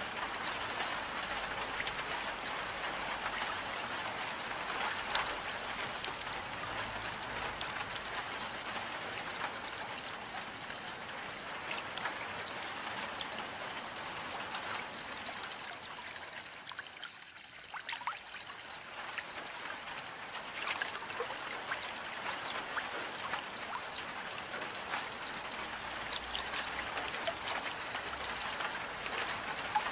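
Steady rain: an even hiss with many separate drops ticking through it. It thins briefly a little past halfway, then returns.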